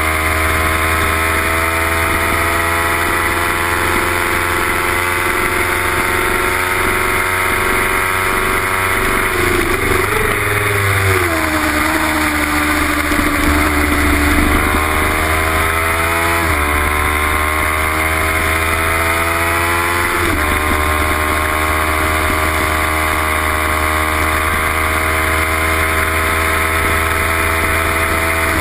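Kawasaki Ninja 300's parallel-twin engine at high revs on track, its pitch climbing slowly under hard acceleration. About ten seconds in the pitch falls as the bike slows and changes down, then climbs again with quick steps at upshifts around 16 and 20 seconds in.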